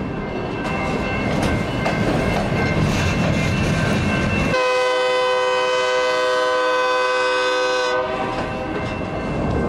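A train passing with its wheels rumbling and clacking over the rail joints while its air horn sounds. The horn chord is loudest in a held blast from about halfway through until near the end.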